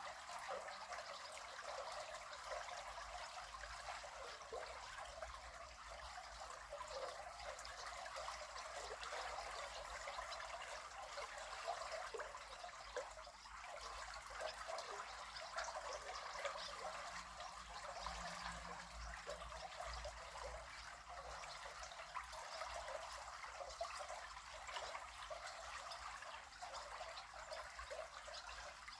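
River water flowing: a steady, even rush of water, mostly in the middle and upper range, with no low rumble.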